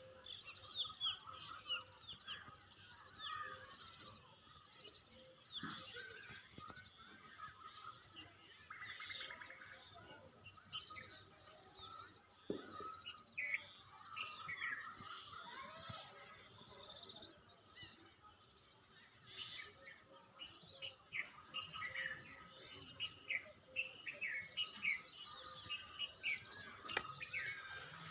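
Small birds chirping and twittering in short, scattered calls over a steady high-pitched insect drone.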